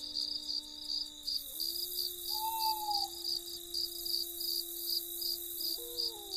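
Crickets chirping in a steady, even rhythm of about two chirps a second, under a layer of soft, sustained low tones that shift pitch now and then like a background music pad.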